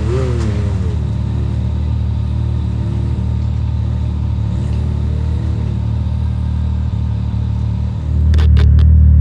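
Side-by-side UTV engine running under way on a trail, its pitch rising and falling gently. It gets louder about eight seconds in, with a few sharp knocks.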